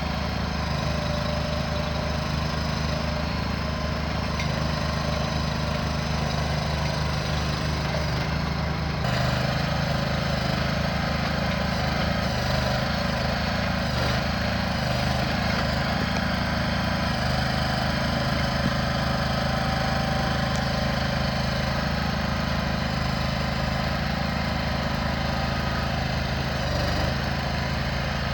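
An engine running steadily, with its note changing and getting a little louder about nine seconds in.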